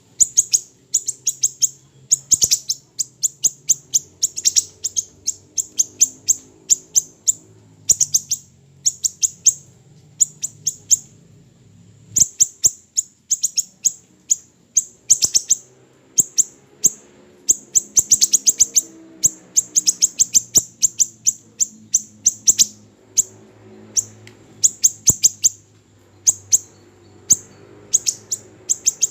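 Siri-siri kecil songbird singing: fast runs of sharp, very high-pitched chips strung into trills, broken by brief pauses, over a faint low hum.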